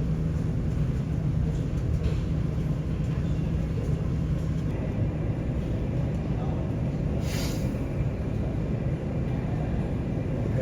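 Steady low rumble of airport terminal background noise, with a low hum that fades out about halfway through and one short hiss about seven seconds in.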